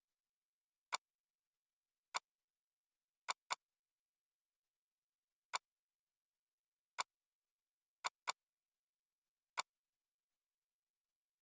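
Computer mouse clicks: nine sharp single clicks at uneven intervals, including two quick double-clicks, with dead silence between.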